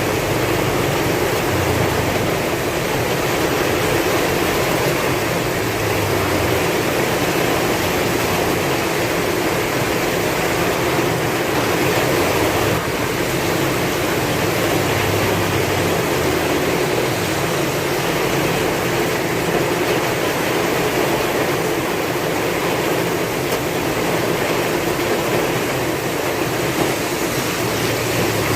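Heavy rain falling steadily, with slow low rumbles of wind swelling and easing underneath.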